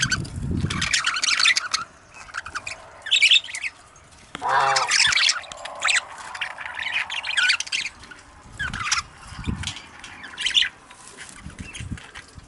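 A flock of budgerigars chattering and squawking, many quick overlapping calls, with one louder, longer call about four and a half seconds in.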